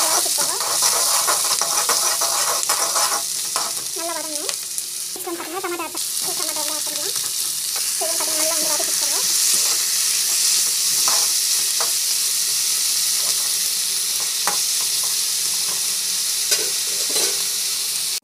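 Chopped onions and tomatoes sizzling in hot oil in a frying pan, a steady hiss, while a spatula stirs them, scraping and tapping against the pan.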